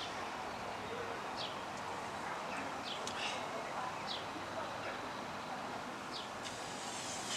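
Birds chirping faintly and now and then, a few short high calls scattered over a steady outdoor background hiss.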